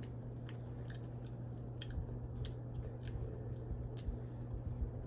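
A child chewing crunchy Cheetos Blazin' Crunch Cheese corn snacks: irregular crisp crunches over a steady low hum.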